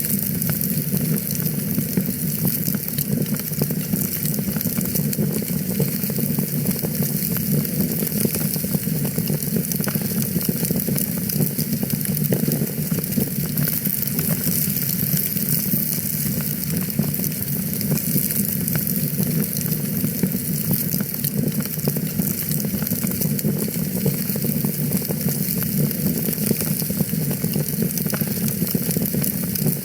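Wood fire in a fireplace crackling steadily: dense small pops and crackles over a constant low rumble.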